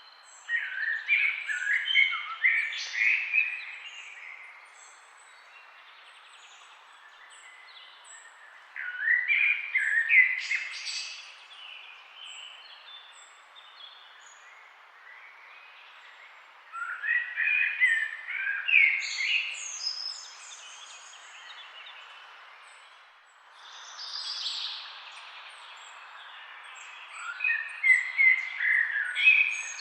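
Songbirds singing outdoors. One bird repeats a loud, warbling song phrase of about three seconds, four times at roughly eight-second intervals, while fainter high chirps from other birds sound in between over a steady background hiss.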